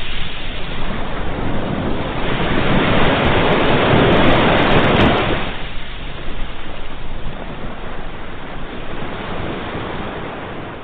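Ocean waves breaking on a shore: a wave surges up to a peak about four to five seconds in, then washes back and eases off toward the end.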